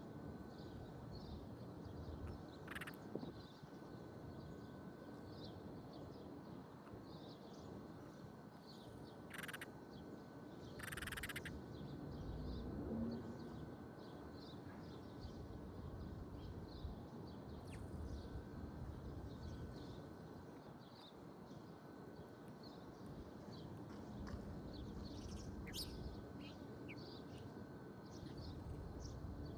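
Outdoor countryside ambience: many small birds chirping, with a few louder calls about nine and eleven seconds in, over a low steady rumble.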